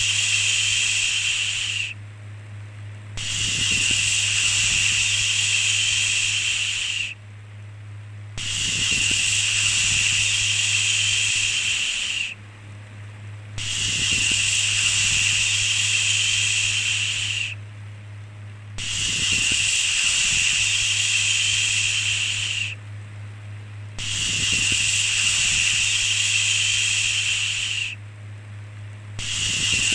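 A long, steady 'shhh' shushing sound repeated in a regular cycle: each shush lasts about four seconds, then there is a gap of just over a second, about six times in all. A steady low hum runs underneath throughout.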